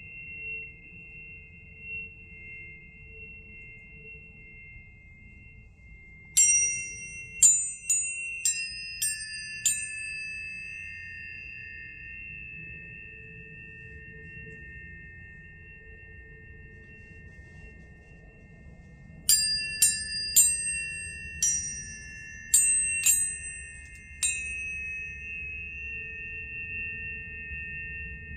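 Tuning forks struck in two clusters of quick strikes, about a second apart. Each strike gives a bright metallic ping whose high overtones die away within a second, leaving several high pure tones ringing on steadily, over a faint low hum.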